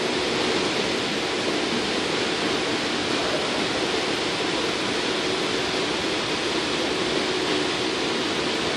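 Steady running noise of an AirTrain JFK people-mover car in motion, heard from inside the cabin: an even rush with a faint steady hum underneath.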